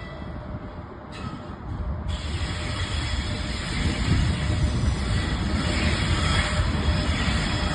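Train passing on the rails: a steady rumble and wheel noise that grows louder about two seconds in and again about four seconds in.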